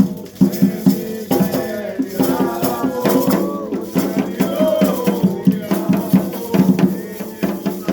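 Afro-Brazilian ritual music: rattles and hand drums beating a quick, steady rhythm under voices singing.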